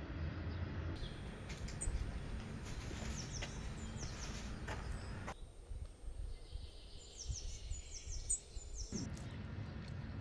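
Birds chirping in short falling calls over a low background rumble. The background changes abruptly a few times, becoming quieter for a stretch in the middle.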